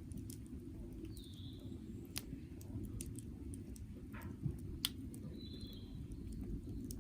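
Wood campfire crackling, with scattered sharp pops, the two loudest about two and five seconds in, over a low steady rumble. A bird calls twice, about a second in and again near the end.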